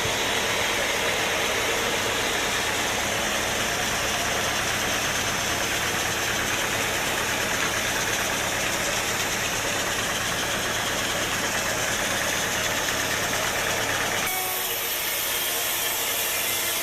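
Sawmill machinery running steadily, a low engine-like hum under a broad hiss; the low hum drops away about fourteen seconds in.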